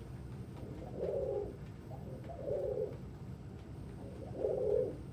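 Domestic pigeons cooing: three short, low coos about one and a half to two seconds apart.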